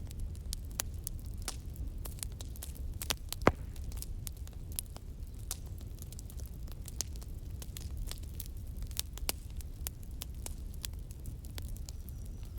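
Fire crackling: irregular sharp pops and snaps over a low, steady rumble, with one louder pop about three and a half seconds in.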